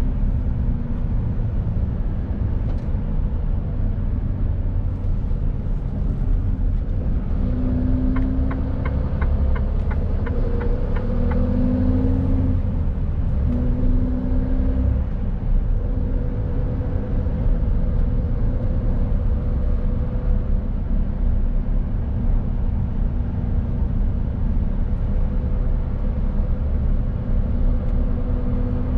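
Mercedes-Benz Actros truck driving, with a steady low diesel engine drone and road rumble. The engine note shifts in pitch several times, and there is a short run of regular ticks about a third of the way in.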